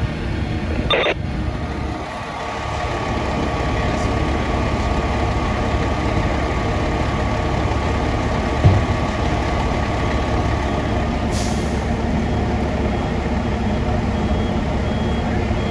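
Heavy diesel fire apparatus running steadily with a low rumble. A short hiss of air brakes comes about eleven seconds in, and a back-up beeper starts sounding at an even pace near the end.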